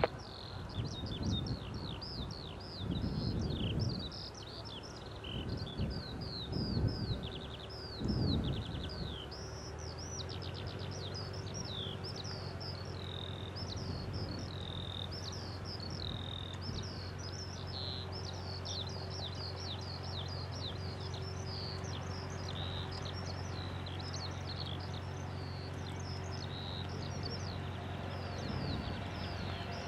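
Small birds singing continuously with quick, chirping, mostly downward-sweeping notes. Low gusty rumbles come and go for the first eight seconds or so, and a steady low hum sets in about ten seconds in.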